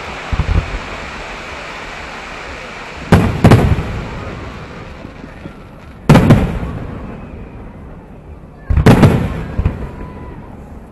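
Aerial firework shells bursting in the distance: a couple of low thumps about half a second in, then loud bangs, a pair around three seconds, one around six and another around nine, each fading away in a rumble.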